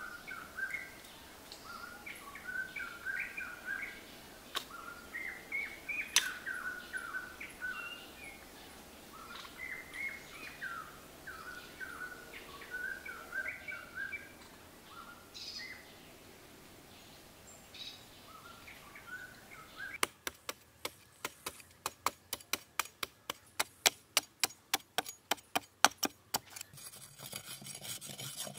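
Birds chirping, with short repeated calls. About two thirds of the way in, birdsong gives way to a quick run of sharp knocks, about three a second, lasting several seconds.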